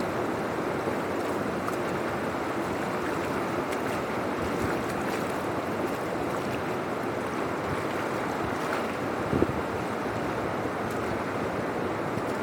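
Water rushing steadily through a cleared drainage channel, with a brief knock about nine seconds in.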